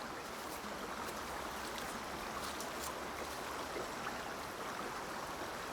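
Steady rush of a flowing stream, with a few faint light ticks over it.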